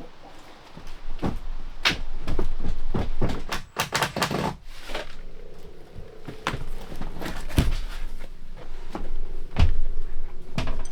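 Irregular knocks and thuds with a brief rattling clatter about four seconds in, from tear-out work inside a wooden boat's hull.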